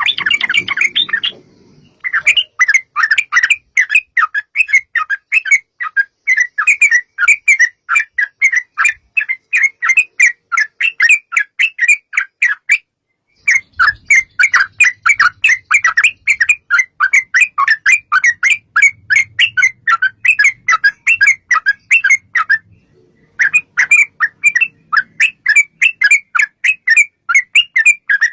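Yellow-vented bulbul (cucak trucuk) calling in long, rapid runs of short chattering notes, several a second. The runs come in three long bouts with brief pauses between them.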